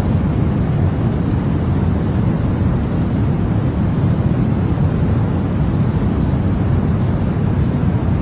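Continuous baby-sleep noise track sold as white noise: a steady, unchanging rushing noise, deep and heavy in the low end.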